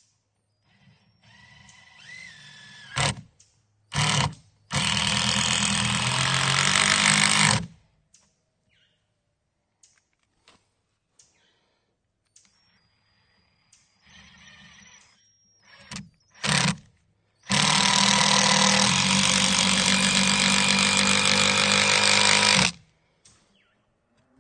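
Power driver driving screws into treated wood stringers: a few short trigger blips, then two long runs of about three and five seconds each as screws are sunk.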